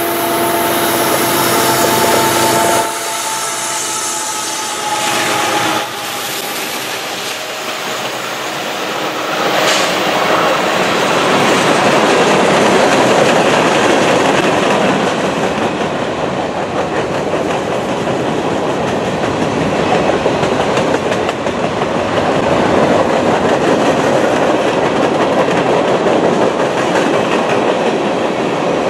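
Freight train cars rolling past: a steady rush of steel wheels on rail with clickety-clack over the rail joints. In the first few seconds, steady ringing tones sound over the rolling and cut off abruptly about three seconds in; fainter tones linger until about ten seconds in.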